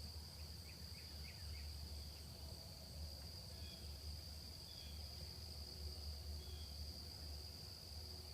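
Steady high-pitched drone of a night insect chorus, with a few faint bird chirps over it.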